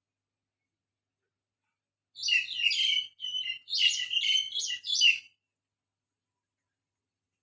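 A songbird singing: a quick, jumbled run of high, chirping notes that starts about two seconds in and lasts about three seconds, between stretches of silence.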